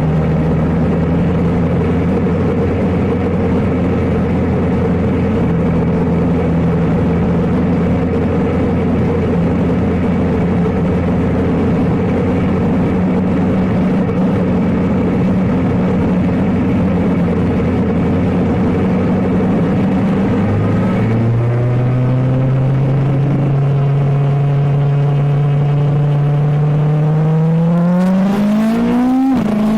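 Suzuki GSX-R750 K7 inline-four engine heard from onboard, running at a steady pitch for about twenty seconds. It then climbs slowly and revs up steeply near the end, with a sudden drop in pitch just before the end, as at an upshift.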